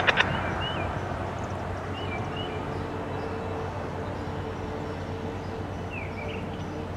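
A freight train's rear cars rolling away on the rails: a steady rumble that slowly fades as the train recedes. A few short bird chirps come through over it.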